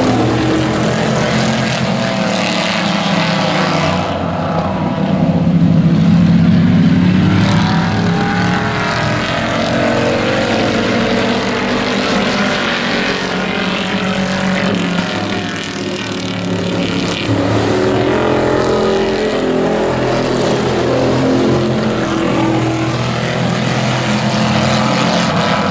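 Several hobby-class race trucks' engines running hard in a heat race, the pitch rising and falling as the trucks accelerate, lift and pass.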